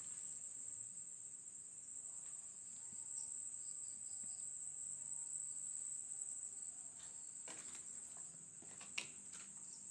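Night insects chirring in a steady, continuous high-pitched drone, with a faint tick or knock about nine seconds in.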